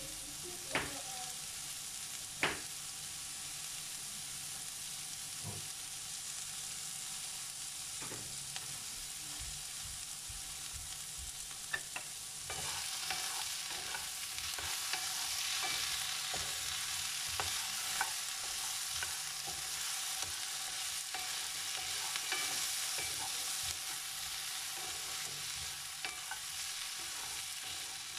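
Sliced potatoes, carrots and onion sizzling in oil in a frying pan, with a spatula scraping and clicking against the pan as they are stirred. The sizzle grows louder about halfway through, once the stirring turns the vegetables.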